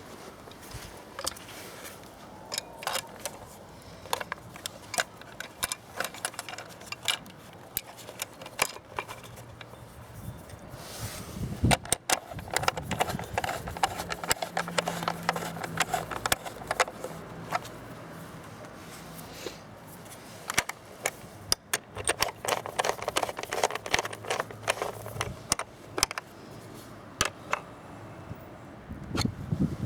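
Irregular clicks, clinks and scrapes of hand tools and parts being worked on a Honda CBF125 motorcycle while its battery cover is refitted, with busier clusters of clatter about twelve seconds in and again a little past twenty seconds.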